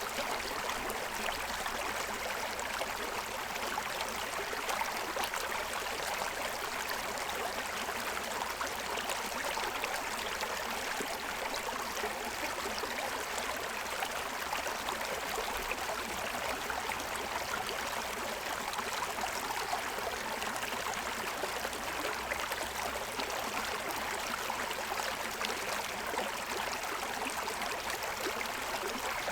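Forest stream running over a stony bed, a steady rush of water splashing and gurgling.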